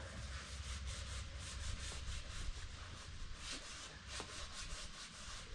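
Sanding by hand: sandpaper rubbing back and forth in repeated strokes.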